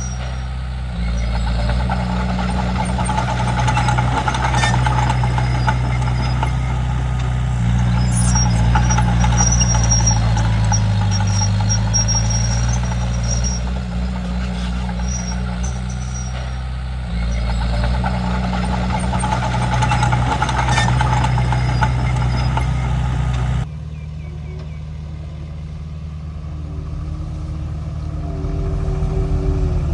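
Komatsu D31P bulldozer's diesel engine running under load, its level stepping up and down as it works. About 24 s in, the sound cuts suddenly to a quieter, steadier engine.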